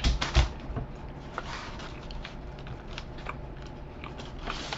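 A person chewing food close to the microphone: small crunchy clicks, loudest in the first half second, then fainter and scattered.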